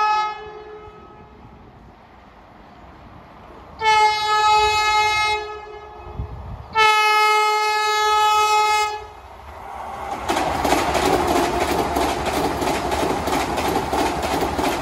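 Vande Bharat Express electric trainset sounding its single-note horn: the end of one blast at the very start, then two long blasts about four and seven seconds in. About ten seconds in it passes at speed, with a loud rush of running noise and rapid clickety-clack of wheels over rail joints.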